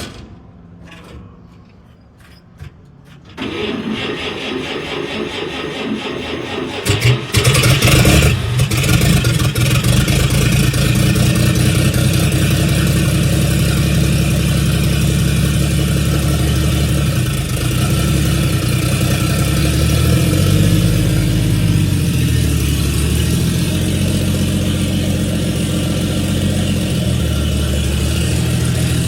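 1948 Chevrolet Fleetline's 235 straight-six is cranked over for a few seconds, catches about seven seconds in and then runs steadily, its pitch shifting for a few seconds midway.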